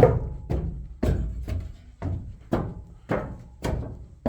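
Footsteps climbing a staircase: heavy, evenly paced thuds about two a second.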